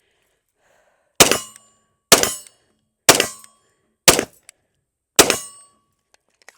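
Five shots from a SIG P320 X10 pistol in 10mm, fired about one a second, each followed by a brief metallic ring.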